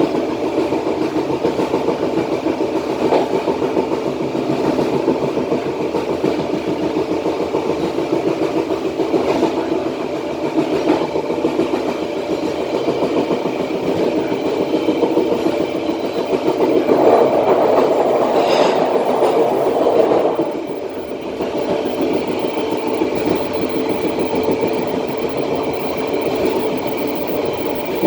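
Matarmaja passenger train running along the track, heard from the back of the last carriage: a steady rumble of steel wheels on rail with a few sharp clicks, louder for about three seconds past the middle.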